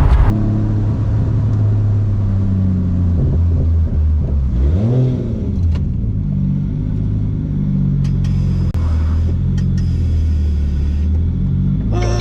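A 1JZ straight-six engine in a Nissan 350Z running steadily under light load while driving, with one brief rev that rises and falls about five seconds in.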